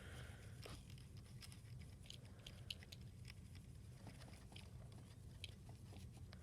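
Faint scratching and light ticks of a Sharpie marker being worked over a small die-cast toy car, in irregular small strokes over a low steady hum.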